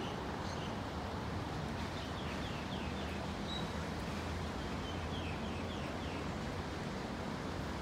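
A bird calling twice, each time a quick run of short falling notes, over a steady background hiss and low hum.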